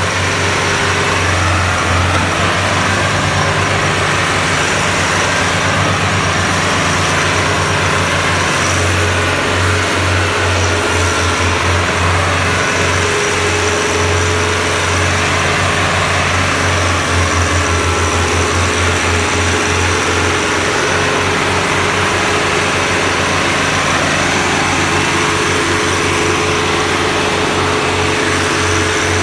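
Tractor engine running steadily and loud, with a deep pulsing drone and a steady whine over it.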